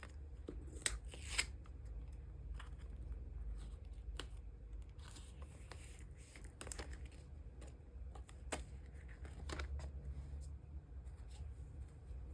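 Photocards and clear plastic sleeves being handled: a series of sharp clicks and taps, the two loudest about a second in, with soft sliding and rustling of plastic between them.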